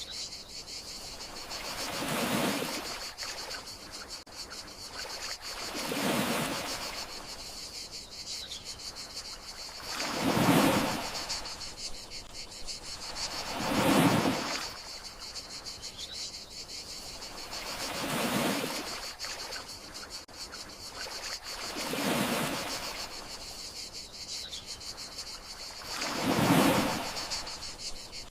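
Gentle sea waves washing in about every four seconds, each one swelling and fading, over a steady high chirring of crickets.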